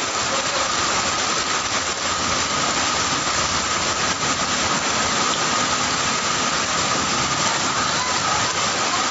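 Heavy rain and floodwater flowing across a street, a steady unbroken hiss, with a faint steady high hum running under it.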